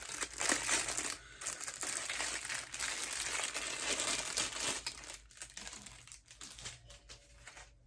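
Packaging crinkling and rustling as an item is handled and pulled out of its wrapping. The rustle is dense for about five seconds, then thins to a few faint crinkles near the end.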